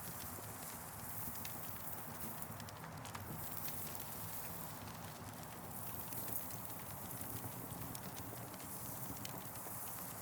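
Campfire burning: scattered sharp crackles and pops over a steady low rumble of the flames.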